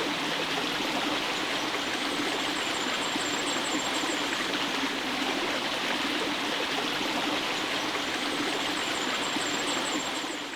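Stream water running steadily, with a faint high-pitched chirping heard twice above it; the sound fades out near the end.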